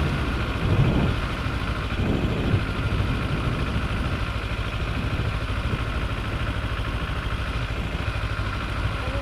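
Engine of a 300cc Kawasaki sport bike running steadily at low speed, an even low rumble, with a couple of brief louder swells about a second and two seconds in.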